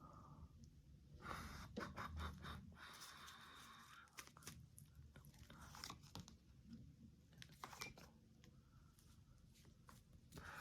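Faint rustling and small clicks of tarot cards being handled on a table, busiest about one to three seconds in.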